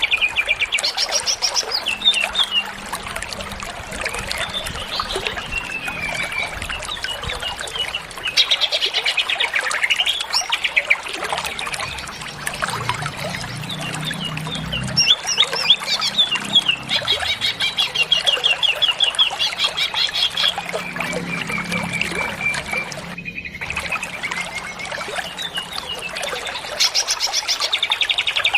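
Green leafbird (cucak ijo) singing without a break, a varied stream of quick trills, sweeping whistles and rapid chattering note series, full of phrases mimicked from other birds. The song cuts out for a moment about two-thirds of the way through.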